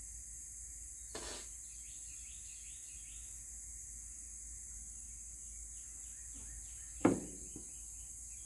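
Steady high chirring of crickets and other insects, with scattered faint bird chirps. A short scuff about a second in and a sharp clunk about seven seconds in, the loudest sound.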